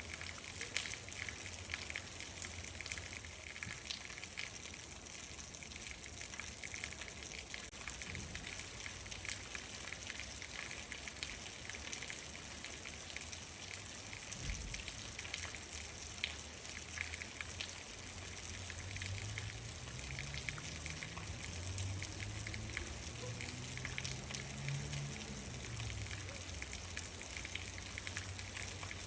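Steady rain falling, a continuous hiss full of small drops tapping. In the second half a low hum swells, rises a little in pitch, then falls and fades over several seconds.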